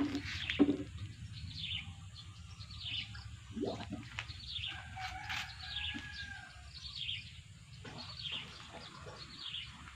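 A small bird chirping over and over outdoors, a short falling note repeated roughly every second or less. Two sharp knocks sound at the very start.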